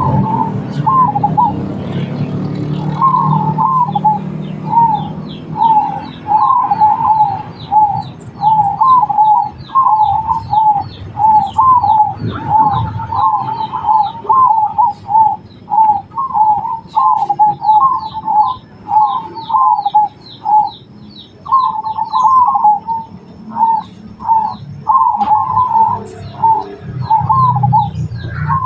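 Zebra doves (perkutut) cooing: a busy, rhythmic run of short, rippling coos that barely pauses, with a fast series of thin, high chirps from smaller birds over it.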